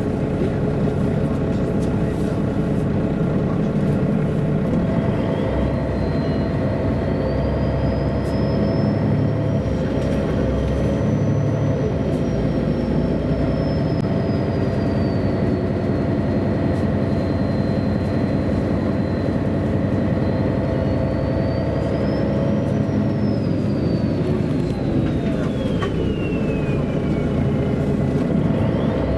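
MAN A23 NG313 articulated city bus under way, heard from inside: the diesel engine runs steadily under a thin, high drivetrain whine that climbs and falls with road speed, dropping steeply near the end as the bus slows.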